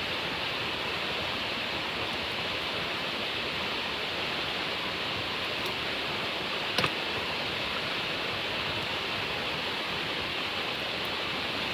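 Steady rushing of a river flowing close by, with one short sharp pop about seven seconds in.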